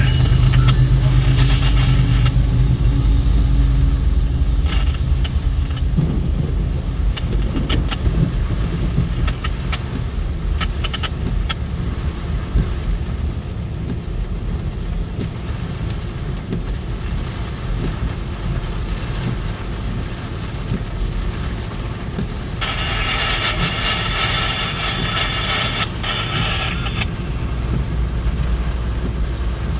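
CSX freight train passing close by in heavy rain. For the first few seconds the diesel locomotives' engines give a steady low hum; then the freight and intermodal cars rumble and clatter over the rail joints. About 23 seconds in, a high ringing tone sounds for about four seconds.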